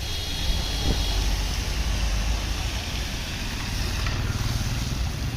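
Heavy truck's diesel engine running with a steady low rumble, under a steady hiss of background noise.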